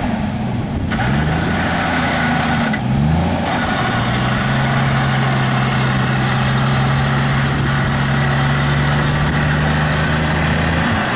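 Jeep Wrangler YJ engine accelerating, its pitch rising in steps through a couple of gear changes during the first few seconds, then running at a steady cruising speed. A constant rush of road and wind noise runs underneath.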